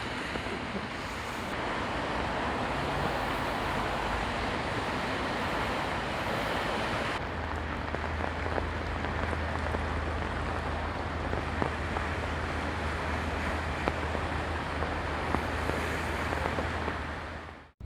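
Steady rain falling, a continuous hiss with scattered small drop ticks. About seven seconds in the sound shifts and a low steady hum joins the rain; it all fades out near the end.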